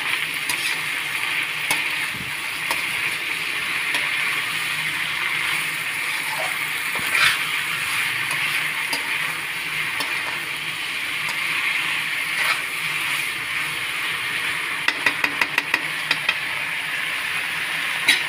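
Jackfruit pieces and ground spice paste sizzling steadily in hot mustard oil in a kadhai, stirred and scraped with a metal spatula. Scattered clicks from the spatula, and a quick run of about seven sharp taps near the end.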